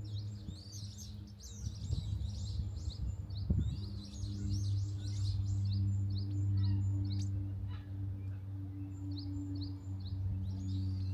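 Many small birds chirping and twittering in quick, overlapping high notes, over a steady low hum. A brief low bump comes about a third of the way in.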